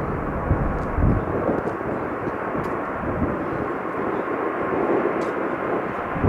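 Steady jet engine noise of an arriving Southwest Boeing 737 MAX 8, with its CFM LEAP-1B turbofans, and wind gusting on the microphone in a few low rumbles.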